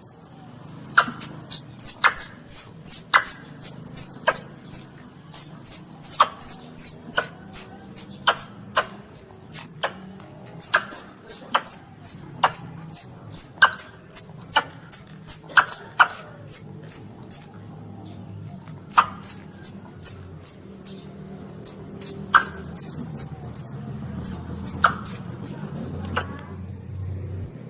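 Baby palm civet (luwak) calling: runs of short, high-pitched squeaks, each dropping in pitch, about two to three a second, with sharp clicks among them. The calls break off for a second or so near the middle, then start again.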